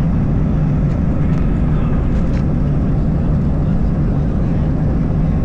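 Airbus A320 cabin noise: engine and airflow noise as a steady, loud low roar, consistent with the jet at takeoff power or climbing out shortly after takeoff.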